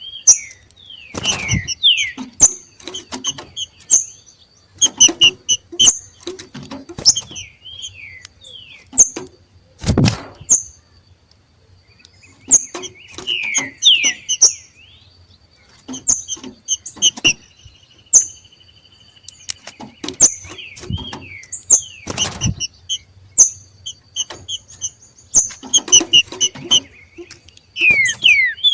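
Green-winged saltators (trinca-ferros) giving their 'macheado': bouts of short high chirps and quick downward-sliding notes, the call of birds coming into breeding condition. Several loud sharp knocks break in between the bouts.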